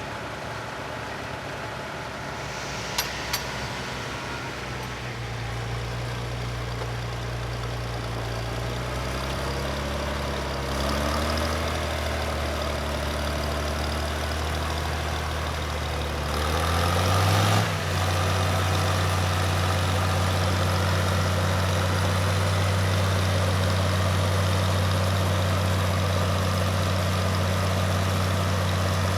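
Farmall 560 tractor engine running, its speed rising in steps and then holding steady and louder for the last ten seconds. Two sharp ticks about three seconds in.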